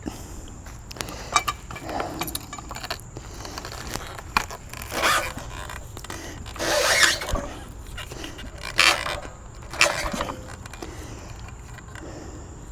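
Large walnut log being turned by hand on a sawmill bed, scraping and grinding against the steel log stops in a series of short rasps, several of them louder. The log is digging into the stops instead of rolling.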